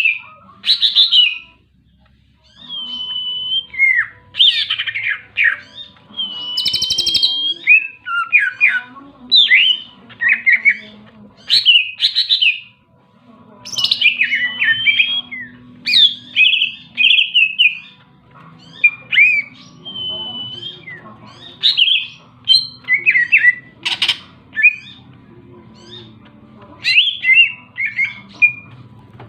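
Cucak ijo (green leafbird) singing continuously: a long run of short, varied whistled and chattering phrases, each under a second or two, with brief pauses between them.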